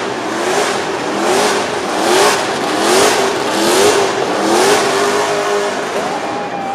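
Car engine revved hard over and over, its pitch rising and falling a little more than once a second as the car spins its tyres in a smoky burnout, with a rushing tyre-and-exhaust noise that swells at each rev.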